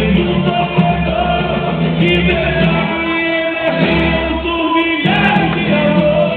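Live boi-bumbá toada played loud over a sound system: a singer with a band, the melody steady over a continuous low accompaniment.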